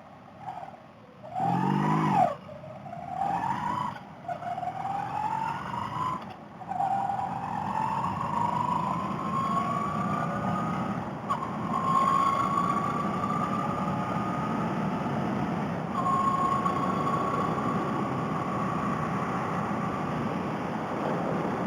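Honda Rebel 250 motorcycle engine pulling away from a stop and accelerating through the gears. Its pitch climbs and drops back at each shift, with several quick shifts in the first seven seconds, then longer pulls, and it settles into a steady cruise about two-thirds of the way in. It is heard through a helmet headset microphone, with wind hiss building as speed rises.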